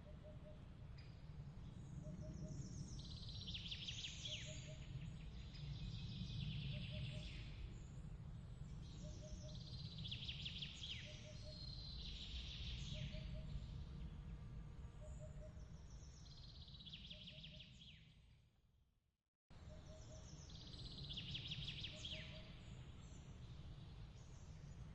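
Layered nature ambience: bird song phrases every few seconds over a steady low rumbling noise, with a faint double chirp repeating about every second and a half. About 18 seconds in it fades to a moment of silence, then the same mix cuts back in as the loop restarts.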